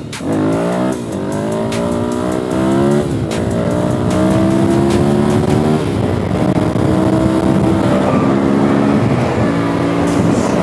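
Dirt bike engine accelerating hard and shifting up through the gears. The pitch climbs and drops back at each shift, three times in the first six seconds, then runs steadier with brief dips near the end.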